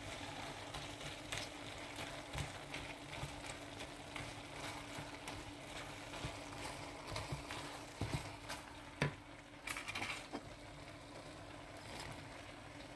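Faint sizzling of sliced onions and peppers frying in a pan, with a few light knocks of a wooden spatula stirring, a little busier about eight to ten seconds in. A steady low hum runs underneath.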